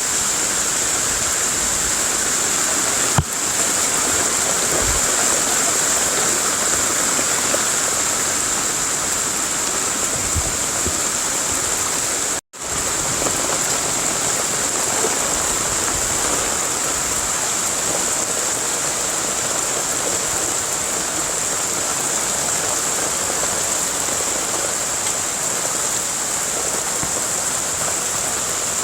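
Heavy tropical rain falling in a steady, dense hiss, with one sharp tap about three seconds in; the sound cuts out for an instant about twelve seconds in.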